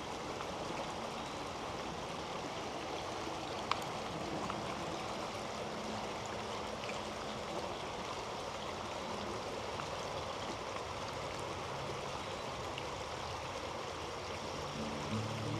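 Creek water flowing steadily, an even rushing wash with one sharp click about four seconds in. Music comes in near the end.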